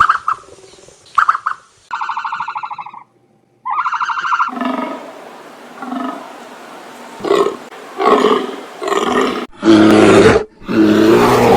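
A few short, wavering bleats, likely a goat's, then a run of loud, rough animal roars, each longer and louder than the last toward the end.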